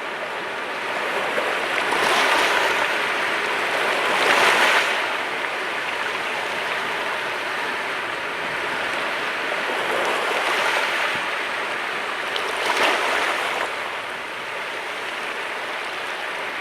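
Mediterranean sea waves breaking and washing on the shore, a steady rush of surf that swells with each wave. The loudest breakers come about four and a half seconds in and near thirteen seconds.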